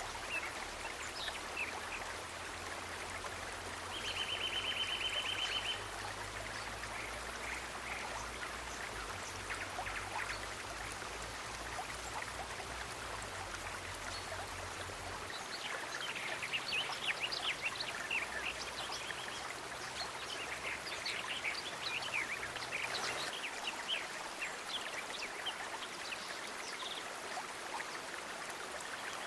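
Steady rush of flowing water, like a stream, with scattered short high ticks and, about four seconds in, a fast evenly pulsed trill lasting nearly two seconds.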